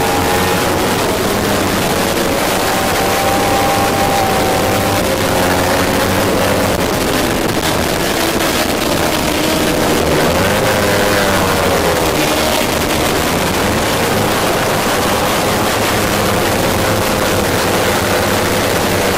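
Onboard sound of a Kawasaki Ninja 300 race bike's parallel-twin engine running at high revs under race pace, mixed with rushing wind. About halfway through, the revs drop and then climb again as the bike goes through a corner.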